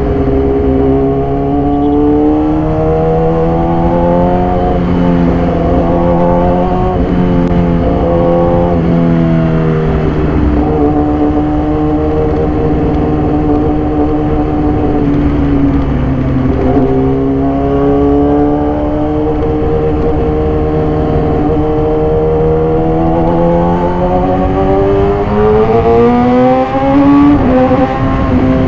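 2014 Yamaha YZF-R6's inline-four engine through an SC-Project exhaust, ridden hard: the pitch climbs under acceleration and drops back at each gear change, several times in the first ten seconds. Mid-way it falls away slowly as the bike slows, then climbs again for a long pull before dropping near the end.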